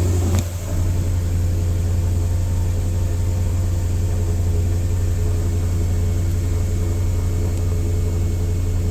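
Maserati Quattroporte Sport GTS V8 idling steadily while warming up after a cold start. There is a brief click and a short dip about half a second in.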